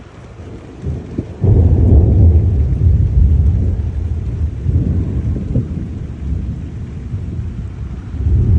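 Thunder: a sudden loud, deep rumble about a second and a half in that slowly dies away over several seconds, with another swell of rumble starting near the end.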